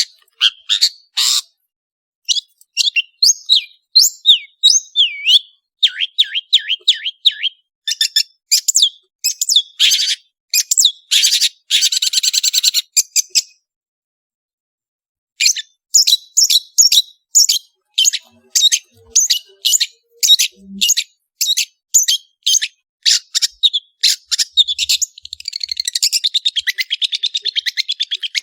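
Long-tailed shrike (cendet) singing a fast, varied song of whistled slurs, rapid runs of sharp high notes and a harsh buzzy stretch. The song pauses for about two seconds midway and ends in a fast chattering trill.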